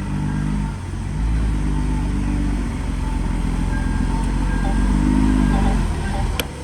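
Heavy diesel engine working, its pitch rising and falling several times as the load and throttle change, with a couple of sharp clicks near the end.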